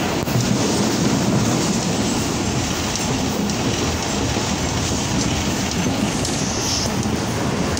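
Mohen Jo Daro Express passenger coach running along the track, its wheels steady on the rails, heard from inside the carriage by an open window.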